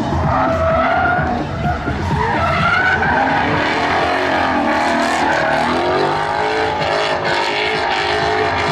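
Car tyres squealing with a wavering high pitch over a running engine's low rumble.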